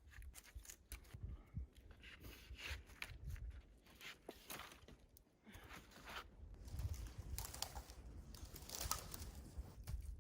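Irregular crunching and scraping of someone working and stepping about in snow, with a low rumble underneath.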